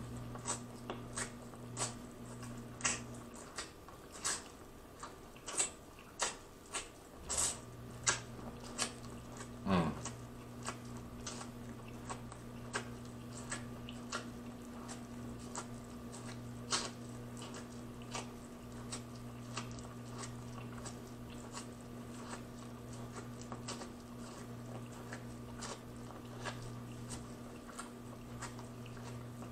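Corn on the cob being bitten and chewed close to the microphone: a run of sharp, wet clicks and crunches, thickest in the first ten seconds and sparser after. A steady low hum sits underneath.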